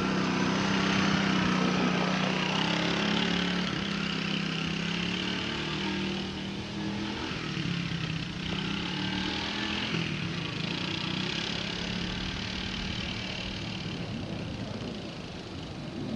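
A small engine running steadily, a constant motor hum whose pitch wavers only slightly.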